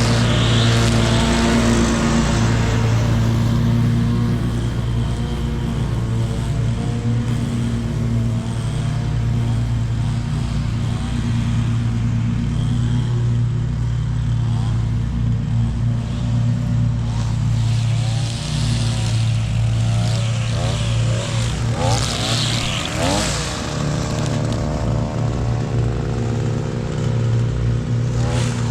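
Ride-on lawn mower engine running steadily at a constant speed, with a hiss of noise over it.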